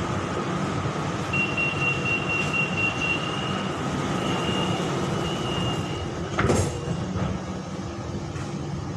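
Inside a BTS Skytrain carriage: a steady hum of the electric train, with a high steady tone sounding for about five seconds, then a single clunk about six and a half seconds in.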